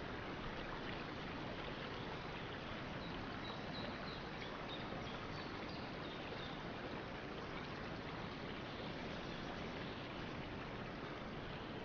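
Water of a stream running in a steady, even rush. A few faint, short, high notes sound briefly a few seconds in.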